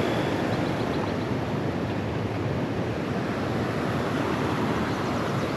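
Steady rush of flowing creek water, an even noise without pauses or distinct events.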